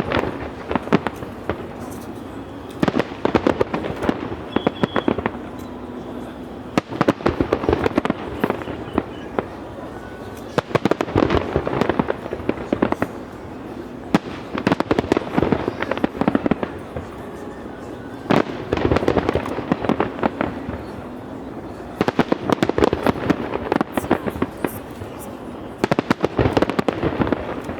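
Fireworks display: aerial shells bursting in rapid volleys of bangs and crackles, a dense cluster every three to four seconds.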